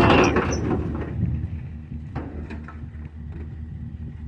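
Vehicle engine idling steadily with a low hum, and a single sharp knock about two seconds in.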